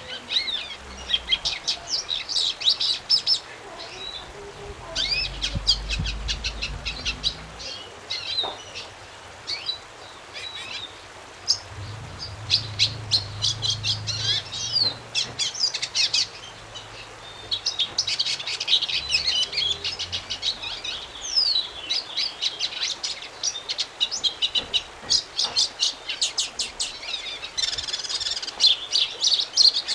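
A songbird singing a long, fast song of quick high notes in phrases of a few seconds, with short pauses between them.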